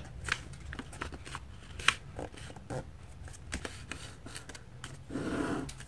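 Paper being handled and folded by hand: scattered crisp crackles and taps, then a short rubbing swipe near the end as a crease is pressed down.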